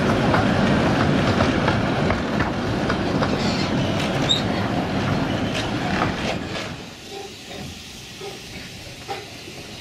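A 15-inch-gauge miniature train running, its coach wheels rumbling and clicking over the rail joints. The sound drops away much quieter about seven seconds in.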